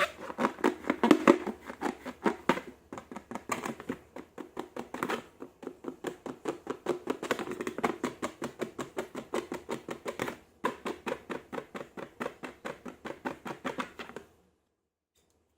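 Slime being squished and worked, making a quick run of wet, sticky clicks and pops at about six a second, which stops suddenly near the end.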